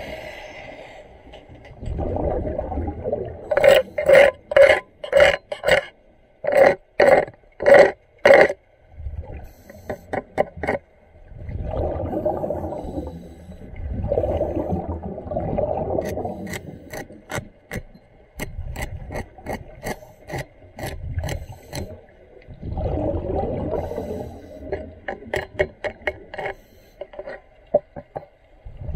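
Underwater diving work: spells of low rumbling bubbles from a diver's exhaled breath, alternating with a run of rhythmic scraping strokes about two a second and later a scatter of sharp clicks.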